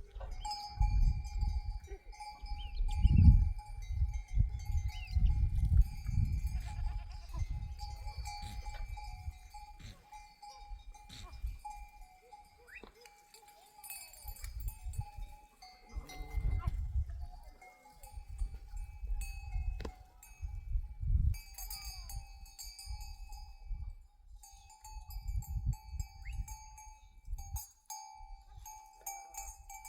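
Bells on a grazing flock of sheep clanking irregularly, with the odd sheep bleat. A steady high tone runs underneath, and there are irregular low rumbles.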